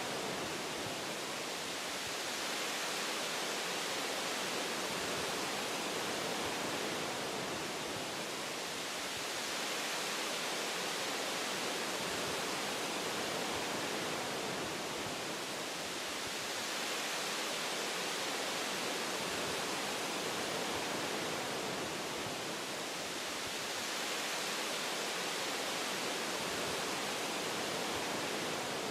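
Wind blowing through forest tree branches: a steady, even hiss that swells and eases gently every several seconds.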